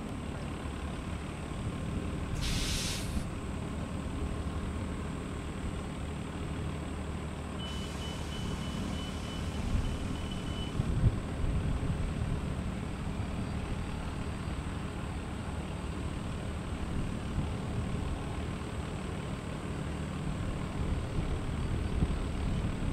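Steady low engine rumble of heavy traffic at an airport, with a short sharp hiss like an air brake about two and a half seconds in and a high repeated beeping for about three seconds near the middle.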